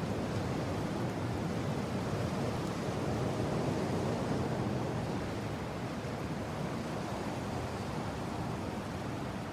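Steady gusting wind, a low rushing that swells a little in the middle and eases off again.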